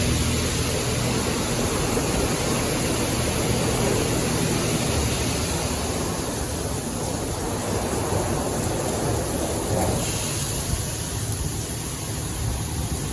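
PDQ LaserWash 360 touchless car wash spraying high-pressure water jets onto a car: a steady hiss of spray over a low hum, which shifts about five seconds in and again near ten seconds.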